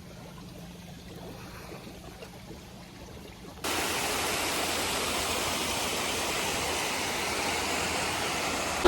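Steady rush of falling water from a pond waterfall or water feature, coming in suddenly about three and a half seconds in after a quiet start.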